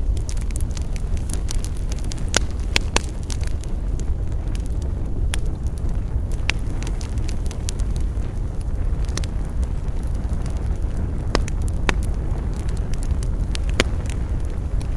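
Wood fire crackling: a dense run of small pops with a louder snap every second or two, over a steady low rumble.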